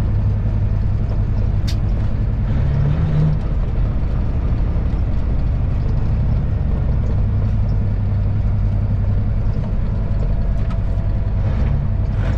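Semi truck's diesel engine running steadily while driving, heard as a continuous low hum inside the cab. A single sharp click comes about two seconds in.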